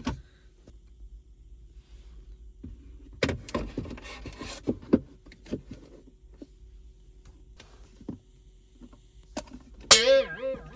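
Scattered clicks and taps of a plastic car accessory being pressed into place, ending in a sharp click and a short squeak that falls in pitch.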